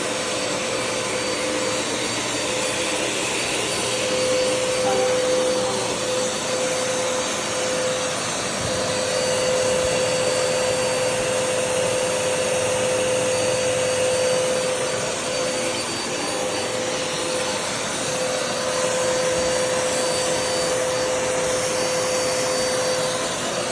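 Vacuum cleaner running steadily, a continuous rushing noise with a steady mid-pitched whine from its motor.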